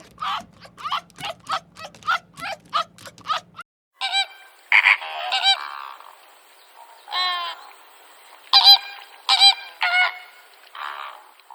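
A quick run of short calls, about three a second, over a low hum, which cuts off about three and a half seconds in. After a short gap, a bird gives a series of loud, separate honking calls.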